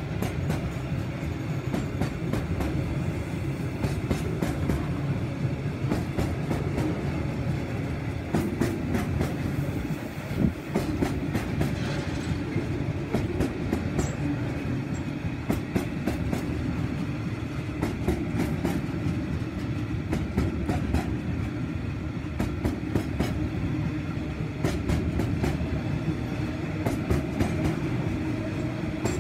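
Loaded bauxite hopper wagons of a freight train rolling past: a steady rumble of steel wheels on rail, broken by frequent sharp wheel clacks.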